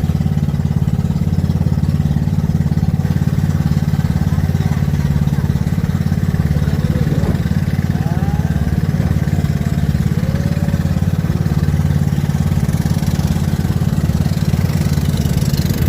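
Pump boat's engine running steadily at a constant speed, with a hiss rising near the end.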